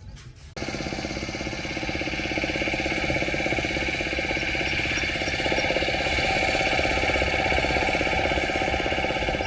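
An engine running steadily with a fast, even chugging rhythm. It comes in suddenly about half a second in.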